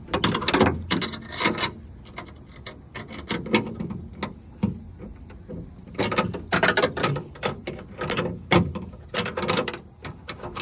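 Ratchet wrench clicking in several short runs of rapid clicks as the two 10 mm nuts holding a car door handle are turned inside the door.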